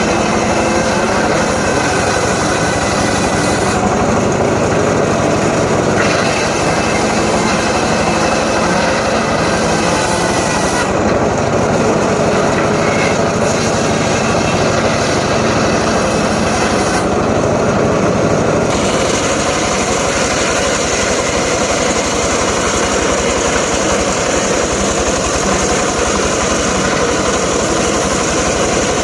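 Homemade motor-driven circular saw rig running steadily while cutting up johar logs, with a continuous loud mechanical drone.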